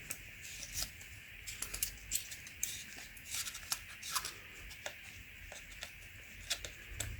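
Light, irregular clicks and small handling noises as the filter element of a used oil filter is measured for width, over a faint steady hiss.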